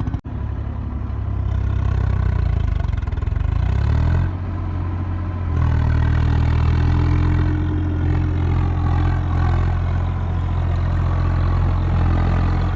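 Tractor diesel engine running. Its pitch rises over the first few seconds and drops back about four seconds in, then it runs louder and steadily from about five and a half seconds on.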